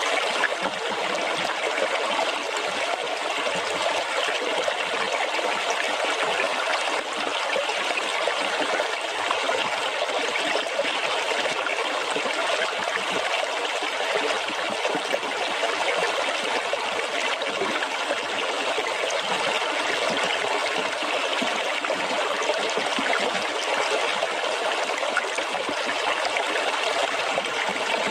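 Water running and splashing steadily, an even rushing wash with no pauses or changes.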